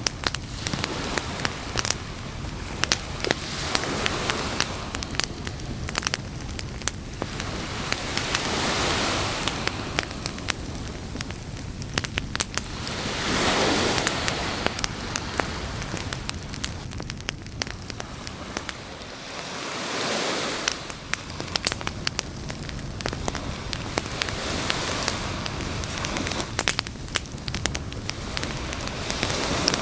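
Wood campfire crackling, with frequent sharp snaps and pops over a steady hiss. Ocean waves wash in and fall back about every five seconds.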